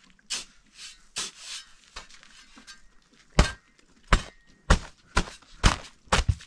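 A run of sharp, hard knocks, about two a second over the last three seconds, after a few softer scraping and rustling sounds.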